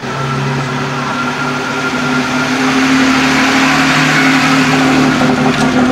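Vintage car engine running at a steady speed as the car drives past close by. The sound grows a little louder through the middle as the car nears.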